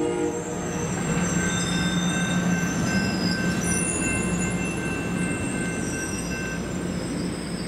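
Amtrak California bilevel passenger train pulling away, its wheels squealing in thin high tones over a steady rumble. The tail of a horn blast cuts off about half a second in.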